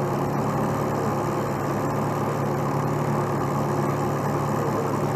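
Heavy truck's diesel engine idling steadily, an even low drone that does not change.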